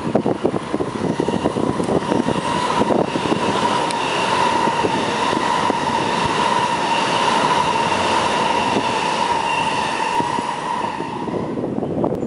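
MTR West Rail Line electric train passing close below, with a steady whine over the rumble of its wheels that swells to its loudest mid-pass and fades near the end. Wind buffets the microphone in the first few seconds and again at the very end.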